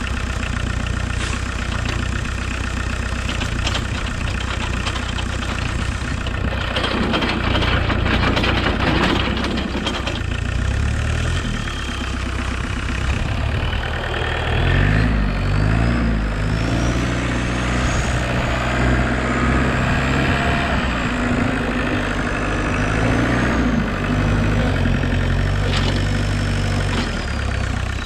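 The VW 1.6 turbodiesel engine of a homemade 4x4 tractor running, its speed rising and falling from about halfway through as it works. A rush of noise comes briefly about a quarter of the way in, and a faint high whine rises and falls above the engine in the second half.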